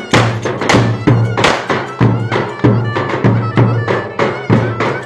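Traditional Turkish folk dance music played live: a steady, driving drum beat with a melody on top.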